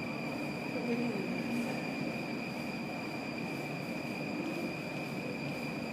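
Steady vehicle running noise: an even rush with a constant high-pitched whine over it and a fainter whine above that.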